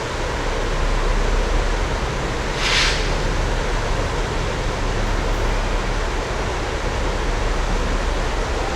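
Steady low rumble and noise of a diesel train running, with one short burst of hiss a little under three seconds in.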